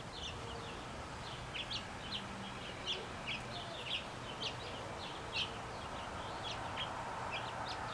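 A flock of house finches chirping: a busy, irregular run of short high chirps, several a second, some overlapping.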